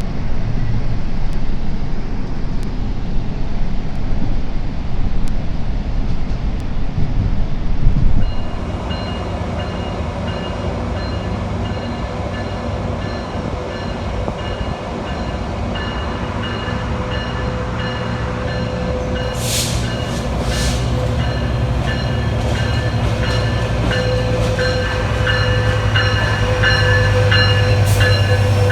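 Train running through a station, with the heavy rumble of wheels on rail. After a sudden change about eight seconds in, steady whining tones sound over a low hum that grows louder, with a few brief squeals or hisses.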